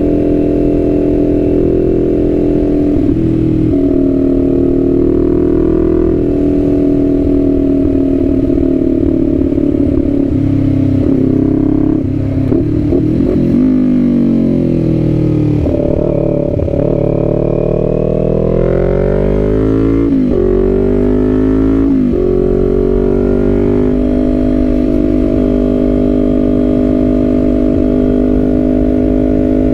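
Kawasaki Z400 parallel-twin engine running on the move. It holds a steady note, drops in pitch as the bike slows about 12 seconds in, then climbs again through a few quick upshifts before settling into a steady cruise.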